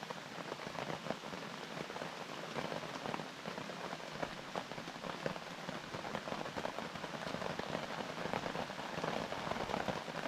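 Heavy rain pouring down on a tarp overhead: a dense, steady patter of drops.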